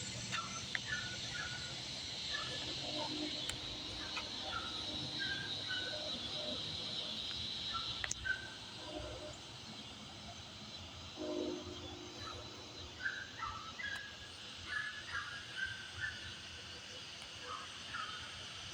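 Evening outdoor ambience: a steady high-pitched insect drone with many short chirps scattered through it, and a faint low rumble underneath.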